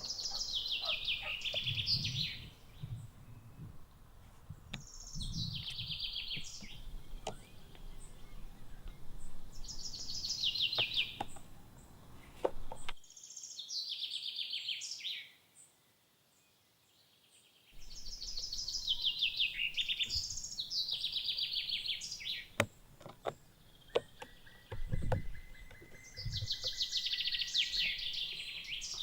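A songbird singing repeated phrases, each a quick run of notes falling in pitch and lasting about a second and a half, a few seconds apart, with scattered clicks and low knocks in between. The sound drops out almost to silence for about four seconds in the middle.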